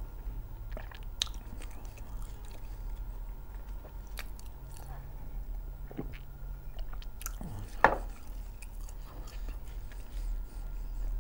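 Close-miked chewing and mouth sounds of someone eating Albanian-style fried liver, with small wet clicks, and a sip from a small glass partway through. One sharper, louder click stands out about eight seconds in.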